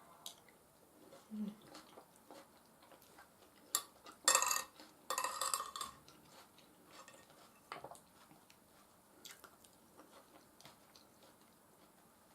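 Close-miked eating: cutlery clinking and scraping on a plate, with soft chewing of mashed potatoes and beef stew in between. Two louder scrapes come about four to six seconds in, with scattered small clicks elsewhere.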